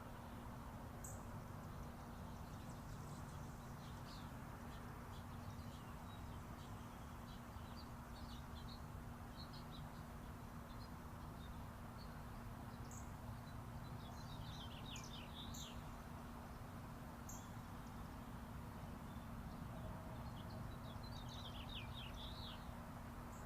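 Birds chirping in short scattered calls, with quick runs of rapid chirps about two-thirds of the way in and again near the end, over the steady distant rumble of interstate highway traffic.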